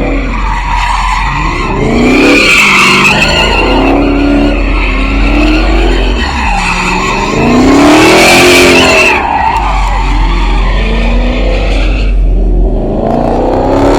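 Car spinning its tyres at a takeover: the engine revs up and down again and again while the tyres squeal, the squeal loudest about eight seconds in.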